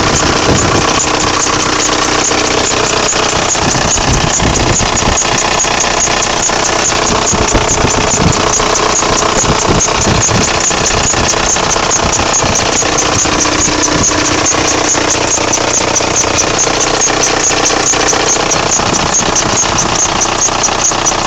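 Volkswagen Golf Mk4 engine idling, with a high squeal from the engine bay repeating rapidly and evenly over the running engine.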